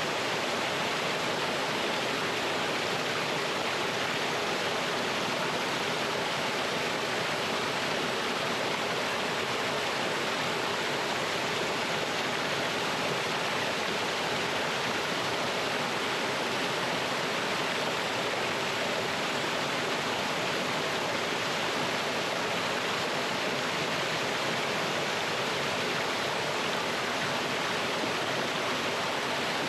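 Mountain stream spilling over rocks in a small waterfall: a steady, unbroken rush of water.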